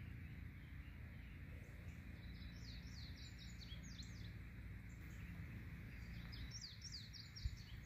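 A small bird singing faintly: two phrases of quick high notes, each note sweeping downward, about two and a half and six and a half seconds in, over a low steady outdoor rumble. A single short click comes near the end.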